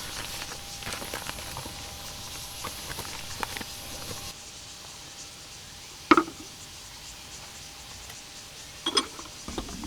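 Camp cooking gear being handled: scattered small clicks and knocks, with a louder knock about six seconds in and another near the end.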